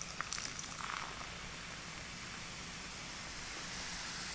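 Sprite fizzing over ice in a cup, a soft steady hiss, with a few faint clicks in the first second.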